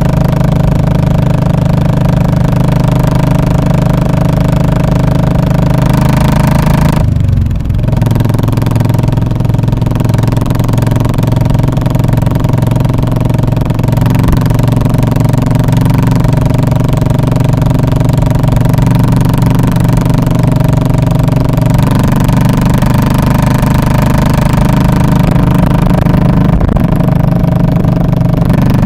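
Royal Enfield Classic 500's single-cylinder engine running steadily through its muffler, a deep, loud exhaust note. The note dips briefly about seven seconds in.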